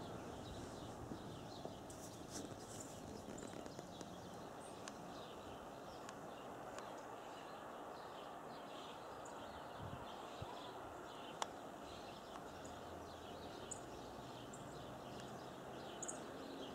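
Small songbirds calling in many short, high chips and twitters over a steady outdoor background hiss, with one sharp click about eleven seconds in.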